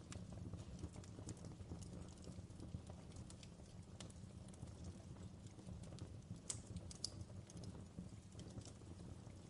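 Fireplace fire crackling faintly: a steady low rumble of flames with scattered sharp pops at irregular times, two of them louder about six and a half and seven seconds in.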